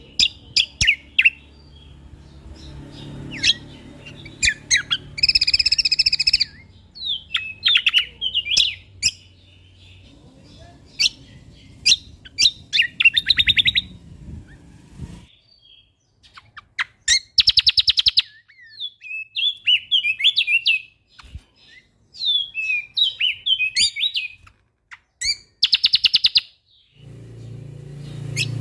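Songbird singing a fast, varied song of sharp chirps, short whistled phrases and several rapid buzzing trills. A low background hum under the first half drops away about halfway through, as if one recording gives way to another.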